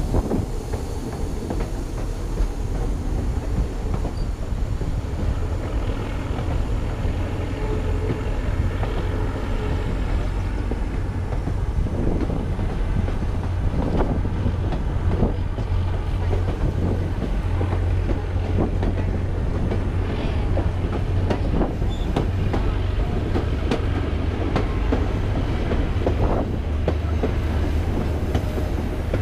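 White Pass & Yukon Route passenger train rolling along: a steady rumble of wheels on the rails with rapid clicking over the joints, and now and then a faint squeal of wheels on the curve.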